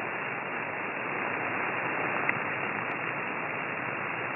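Steady radio receiver hiss, squeezed into a narrow voice-width band, with no speech on the signal. It is the noise of a demodulated transmission as picked up on an SDR receiver. There is one faint tick about two seconds in.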